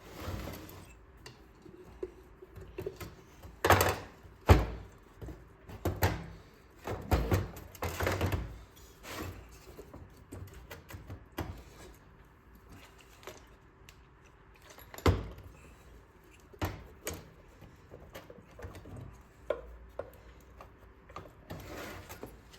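Irregular metal knocks, clinks and scrapes of a screwdriver prying at a small engine's siliconed-on cover plate, with two sharper knocks, one about four seconds in and one near the middle.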